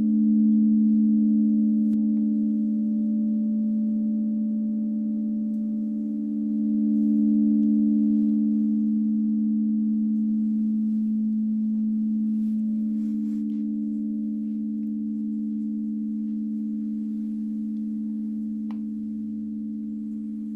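Singing bowls ringing in a sound bath: two steady, pure low tones with faint overtones that swell and ebb slowly and fade gradually toward the end.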